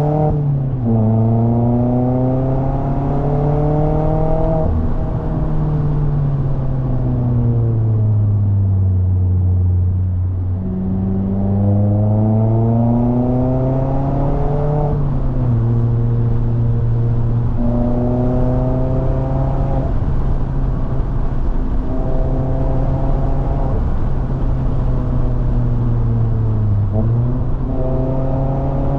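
Mazda MX-5 ND's 2.0-litre four-cylinder engine and exhaust, heard from inside the cabin, pulling uphill through a manual gearbox. The engine note climbs under acceleration, sinks on a long lift-off, then climbs again, with several gear changes where the pitch drops and picks up again.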